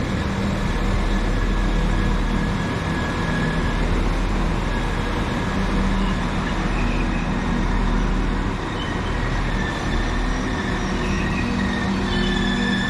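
Northern Class 195 diesel multiple unit, six cars, running through the station with its engines humming steadily and a thin high squeal that comes in about a second in and again near the end.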